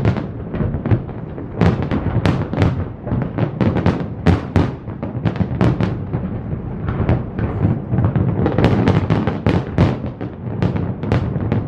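Fireworks display: shells bursting in rapid, overlapping succession, several bangs a second over a steady low rumble.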